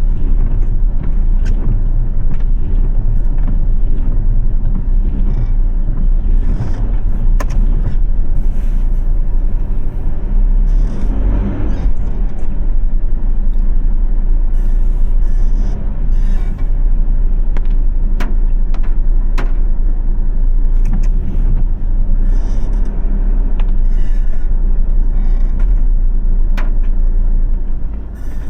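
Car driving in the rain: a steady low rumble of engine and tyre noise, with scattered sharp ticks throughout and a brief swell about eleven seconds in.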